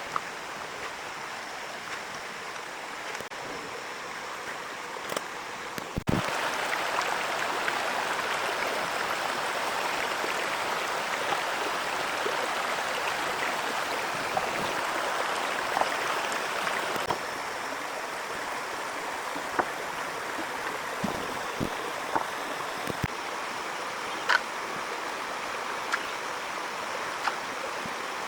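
Steady heavy rain, a dense hiss with scattered sharp ticks and a few dull thuds. It grows louder about six seconds in and drops back a little about seventeen seconds in.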